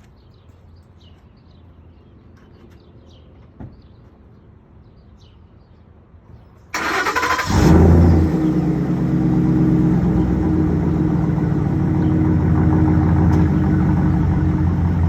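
After several seconds of quiet, a 2011 Ford F-150's 5.0L Coyote V8 with a Borla ATAK exhaust is started. The starter cranks briefly, then the engine catches with a short rev flare and settles into a steady idle.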